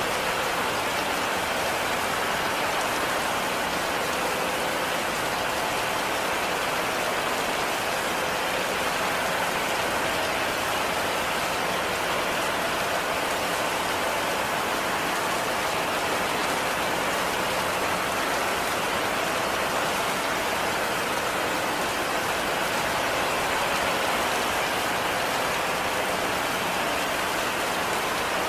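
Heavy rain falling steadily: a dense, even hiss of drops that neither builds nor eases.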